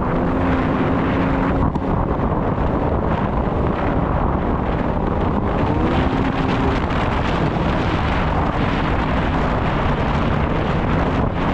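Snowmobile engine running steadily under heavy wind noise on the microphone, its pitch rising briefly about six seconds in.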